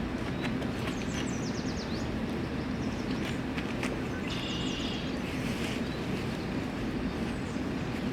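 Outdoor forest ambience: a steady low rumble with a few short, high bird chirps, a run of quick falling notes about a second in and another call around four and a half seconds in.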